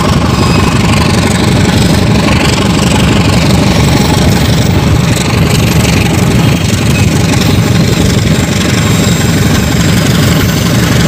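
Diesel locomotive engine running loud and steady, heavy in the low end, as the train moves off.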